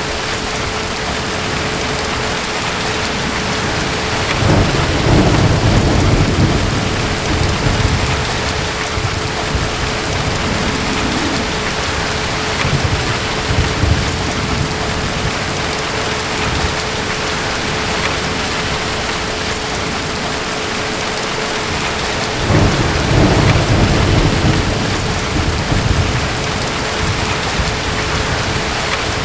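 Steady heavy rain with distant thunder rumbling twice, once about four seconds in and again past the twenty-second mark, each roll lasting a few seconds. A faint steady hum sits under the rain.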